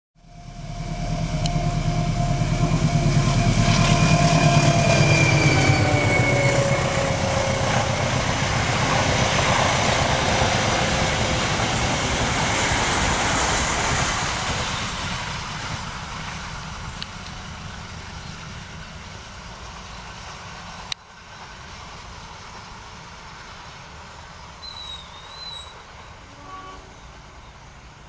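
A General Electric diesel-electric locomotive hauling a passenger train passes close by. Its engine rumble and whine drop in pitch as it goes by, and the wheel noise of the carriages on the rails dies away after about half the time. Near the end a few birds chirp and a rooster calls briefly.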